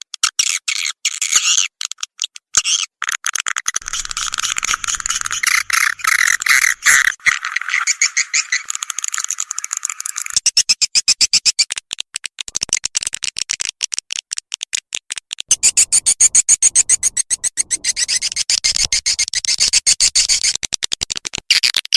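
Swiftlet lure-call track: dense, fast chirping twitters for about ten seconds, then a run of rapid, evenly spaced clicks, and louder chirping clicks for the last several seconds.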